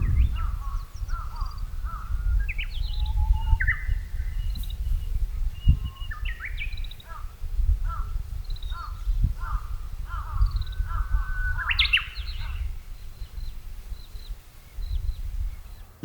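Birds calling, crow caws among them: a steady run of short calls and chirps over a low rumble.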